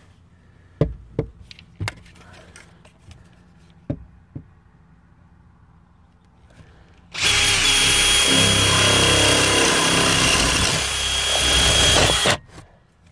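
Power drill running steadily for about five seconds, with a constant high whine, then stopping abruptly; a few light knocks and taps come before it.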